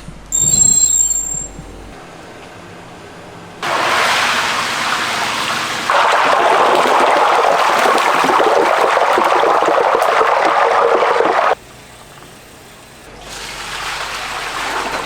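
Running water splashing, in a few stretches that start and stop abruptly, with a short ringing clink near the start.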